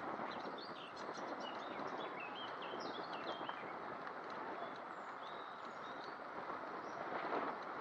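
Steady rush of wind and tyre noise from a moving bicycle, with a songbird singing a quick run of chirps over it through the first half or so.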